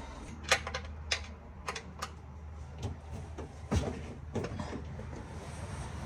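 Sharp metallic clicks, about six spread irregularly over several seconds, from a hand tool working a car's oil drain bolt loose.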